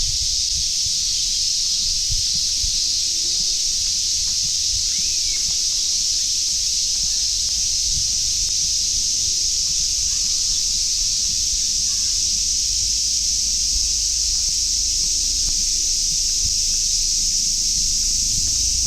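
A chorus of summer cicadas: a loud, steady, high-pitched drone without a break. A low rumble with faint thumps runs underneath.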